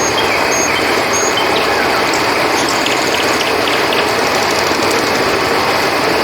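River water flowing steadily, with a few short high chirps and a quick series of clicks over it from night animals.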